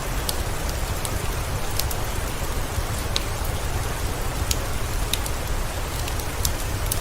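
Steady rain with a low rumble underneath, mixed with scattered sharp little crackles and pops of a wood fire in a fireplace.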